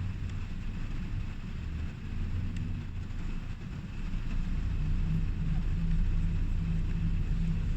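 Low, steady rumble of a motor vehicle running, growing louder with a pulsing hum about four seconds in.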